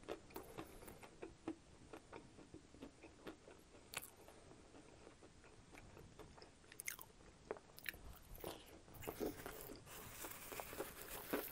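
Faint, close-miked chewing of a bite of fried chicken, with soft crunches and wet mouth clicks. Near the end, a paper towel rustles as fingers are wiped.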